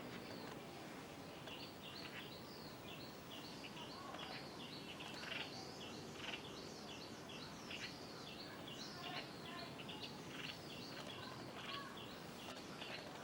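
Small bird chirping, a long run of short high notes at about three a second over a steady background hiss.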